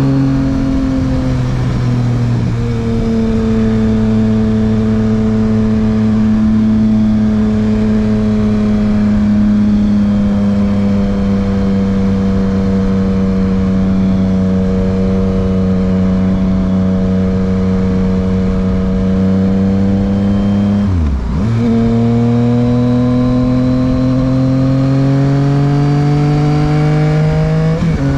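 Yamaha MT-09's 890 cc inline three-cylinder engine running through an aftermarket Dominator HP3 exhaust while riding. The note sags slowly at a steady cruise, drops sharply and comes back about three-quarters of the way through, then climbs as the bike pulls, with another brief break near the end.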